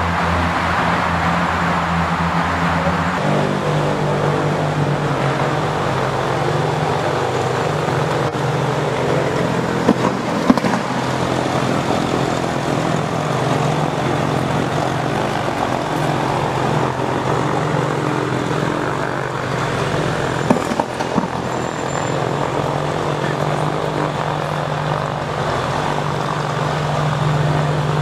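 Supercar engines idling steadily; the engine note shifts about three seconds in, and a few short knocks come through around the middle.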